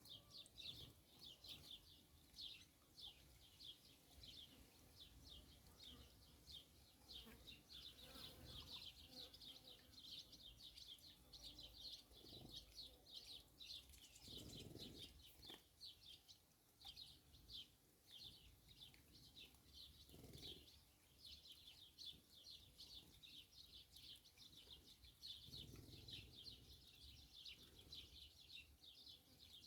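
Faint, rapid chirping and twittering of small songbirds, a near-continuous run of short high notes, with a few dull low rumbles in the middle and near the end.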